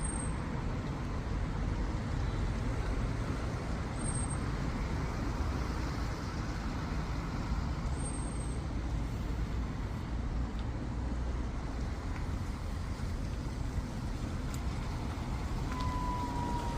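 Steady road-traffic rumble of buses and other motor vehicles running. Near the end a siren starts, a single tone that falls slightly in pitch.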